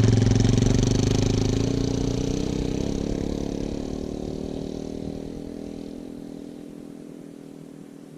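Suzuki DRZ400S single-cylinder four-stroke motorcycle engine running at steady low revs, growing steadily fainter.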